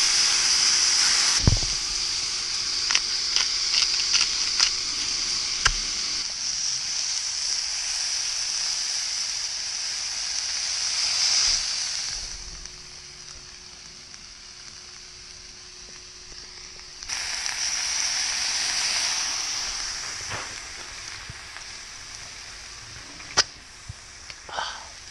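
Whiting fillets sizzling in hot oil in a pan, a steady hiss with scattered pops and crackles. The sizzle falls away about halfway through and comes back a few seconds later before easing off again.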